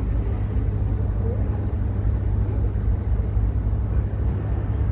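A steady low rumble with an even background haze, with faint voices in the background.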